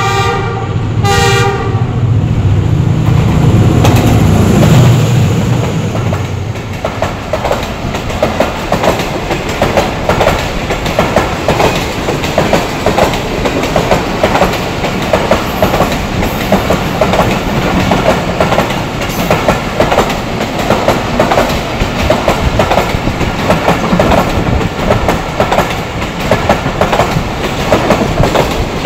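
Passenger train hauled by a ZCU-class diesel-electric locomotive passing close by: its horn blows and stops about a second and a half in, the locomotive's engine rumbles past over the next few seconds, then the coaches run by with a rapid, continuous clickety-clack of wheels over the rails.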